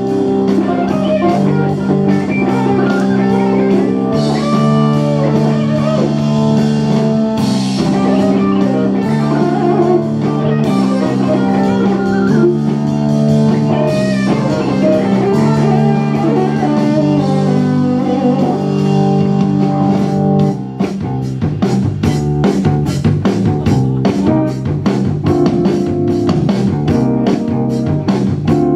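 Live rock-blues band playing instrumentally: electric guitar with bending notes over held chords, bass and drums. About twenty seconds in, the band shifts into a driving beat with fast, even drum hits.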